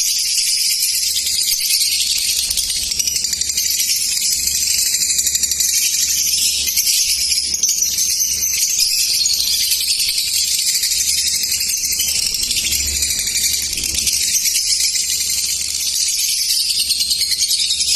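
A group of lovebirds chattering: dense, shrill chirping that goes on without a break.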